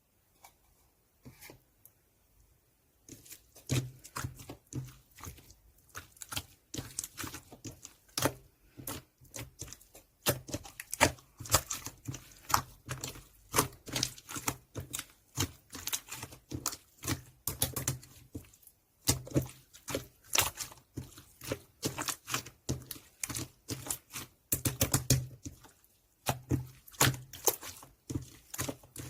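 Clear slime being played with by hand, making a dense run of sticky clicks and pops that starts about three seconds in.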